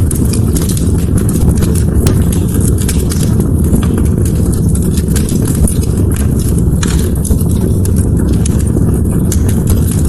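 Wood fire crackling: many quick, irregular snaps and pops over a steady low rumble of the burning.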